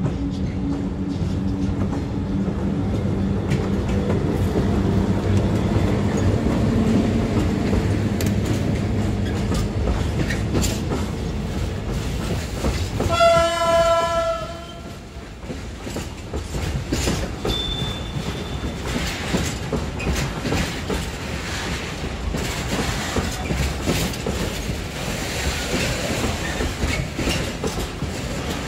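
An EU07 electric locomotive passes with a steady low hum, then gives one horn blast of about a second and a half, roughly 13 seconds in. A train of loaded tank wagons follows, rolling past with the clickety-clack of wheels over rail joints and a brief high squeal a few seconds after the horn.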